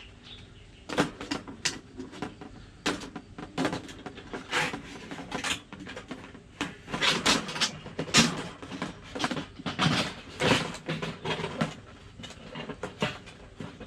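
Thin metal plate and stand of an ultralight folding fire stand being handled and fitted together: irregular light metal clicks and clatters.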